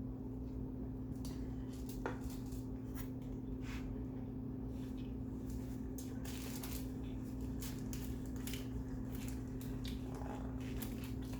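Close-miked chewing of salmon kimbap (rice and seaweed roll): irregular wet mouth clicks and squishes. A steady low hum runs underneath.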